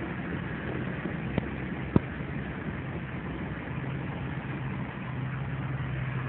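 An engine running steadily, with two sharp clicks about one and a half and two seconds in.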